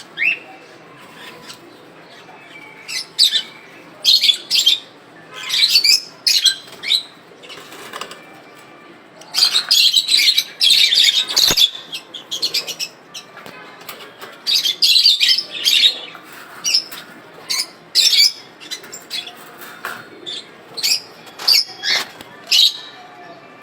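Young cobalt masked lovebirds calling: many short, shrill chirps and squawks in irregular clusters, with brief gaps between them.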